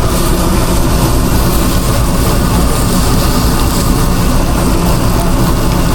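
Steady, loud low drone of running machinery in a food truck kitchen.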